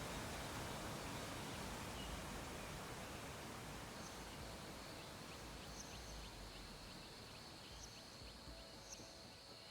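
Faint steady background hiss of ambient noise that slowly fades. From about halfway in, a thin high tone and scattered short high chirps or ticks come through.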